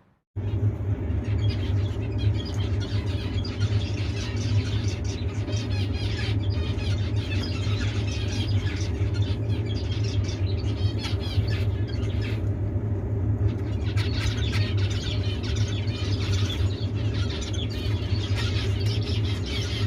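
A flock of zebra finches calling together, a dense chatter of short, squeaky beeps, over a steady low hum.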